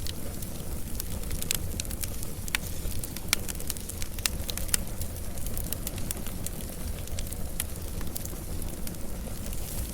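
Wood fire burning with a steady low rumble and irregular sharp crackles and pops, a few louder snaps scattered through.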